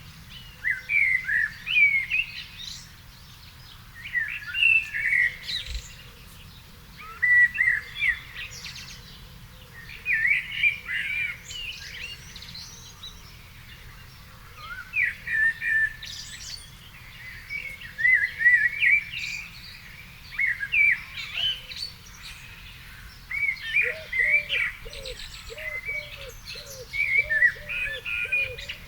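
A songbird singing warbling phrases of about two seconds each, with short pauses between them. A low call repeated about twice a second joins near the end.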